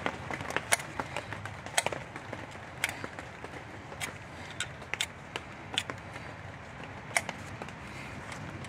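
A blade scraping old gasket sealant off the deck of a 2.5 L five-cylinder engine block: irregular short scrapes and sharp ticks of metal on metal.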